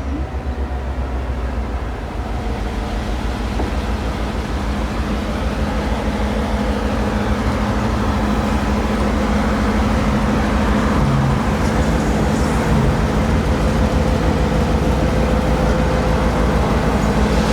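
Locomotive-hauled train running by close at hand, a steady heavy engine rumble that grows gradually louder as it comes nearer.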